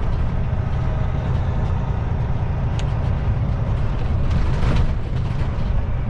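Kenworth T660 semi truck running down the road, heard from inside the cab as a steady low engine and road rumble, with a brief hiss about four and a half seconds in.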